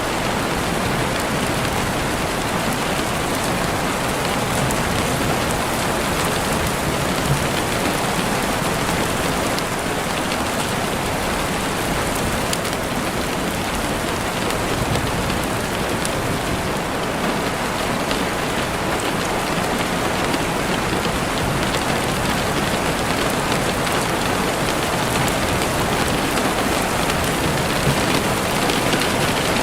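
Steady rain falling, with occasional faint crackling clicks from a campfire.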